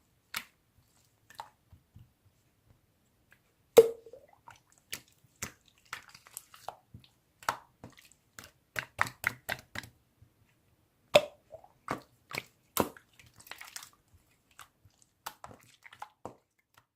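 Slime being squeezed and worked by hand, making irregular sticky clicks and wet pops, with the loudest pops about four seconds in and again about eleven seconds in.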